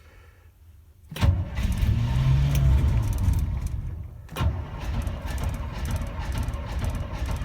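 Chevy 454 big-block V8 of a 1976 GMC motorhome cold-starting at about −5 °C: it bursts into life about a second in, dips just after four seconds, picks up sharply again and keeps running.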